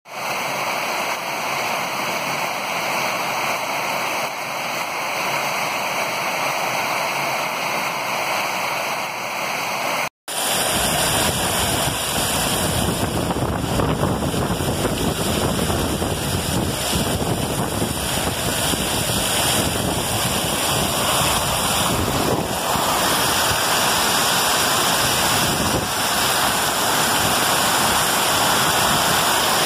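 Heavy rain pouring down, a steady hiss. About ten seconds in it cuts to a louder, fuller torrential downpour with wind buffeting the microphone.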